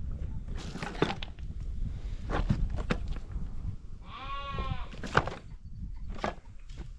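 A single wavering bleat from the family's sheep and goat herd, lasting under a second about four seconds in, with scattered short knocks and clatter around it.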